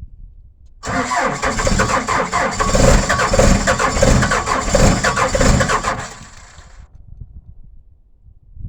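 Engine of a cold machine running loudly from about a second in, then dropping away after about five seconds to a faint low rumble.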